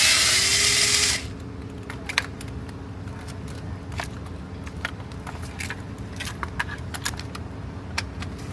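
Impact gun whining and spinning for about the first second as it backs out a tight intake manifold bolt, then stops. Scattered light metallic clicks and clinks follow as bolts and tools are handled.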